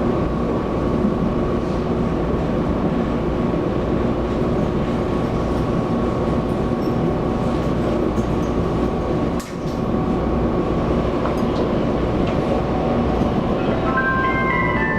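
Running sound inside a Taiwan Railways EMU700 electric multiple unit in motion: a steady rumble of wheels on rail with a faint steady whine. The noise dips briefly about nine and a half seconds in, and near the end an onboard chime melody begins.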